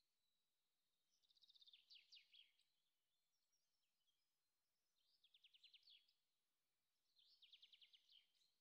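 Faint songbird trills: three bursts of rapid, high chirping notes, each lasting about a second, over near silence.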